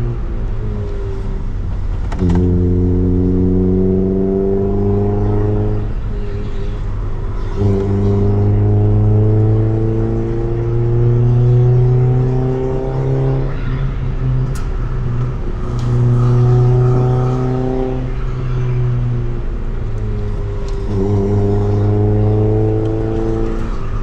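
Honda Civic D15 four-cylinder engine through a Tanabe Revel Medalion Touring S exhaust, pulling up through the revs under throttle about four times, each pull a slow rising drone that fades as the throttle is lifted before the next.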